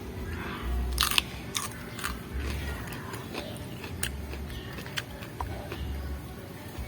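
Crunching bites and chewing of a raw winged bean (cipir), eaten close to the microphone. A loud crisp bite comes about a second in, then irregular crunchy chews.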